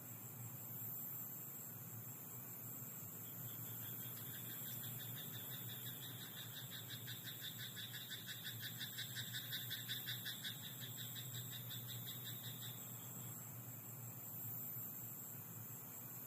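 Frog croaking in a rice paddy: a rapid pulsed call that builds from about four seconds in, is loudest near ten seconds and fades out around thirteen seconds. Under it runs a steady high-pitched insect drone.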